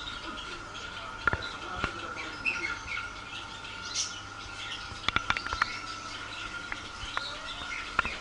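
Many caged birds chirping together, with a steady high tone underneath and a few sharp clicks, one cluster about five seconds in.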